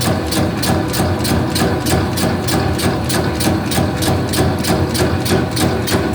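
Meatball-forming machine running: a steady motor hum with an even, rapid ticking of about five clicks a second from its forming mechanism.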